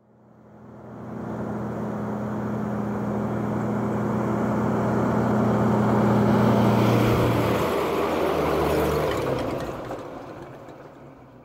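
A motor vehicle's engine running with a steady low hum, growing louder through the middle and then fading away, like a vehicle passing by.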